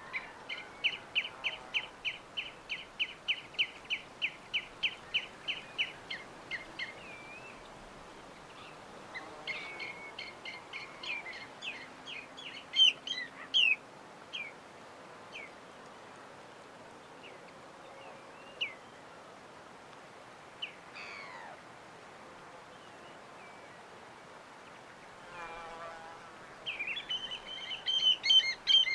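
Birds chirping: a fast, even run of repeated chirps, about three or four a second, for the first several seconds, then scattered varied chirps and calls, and a dense burst of chirping near the end.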